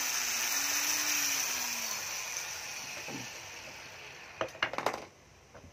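A 12-volt cordless drill running free with a steady high whir, its motor pitch wavering slightly, then dying away over a few seconds as the trigger is let off; a few short clicks follow about four and a half seconds in.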